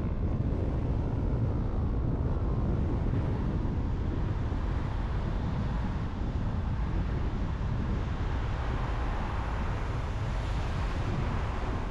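Steady road and tyre noise of a car driving, with a low rumble underneath; the noise swells and brightens for a few seconds near the end.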